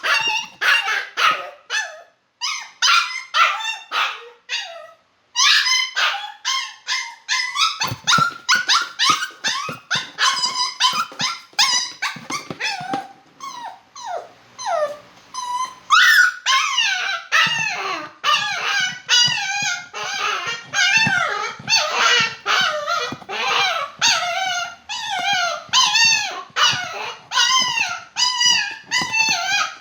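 Poodle crying in a rapid run of short, high-pitched whines and yelps, two or three a second, with a brief quieter stretch about halfway through.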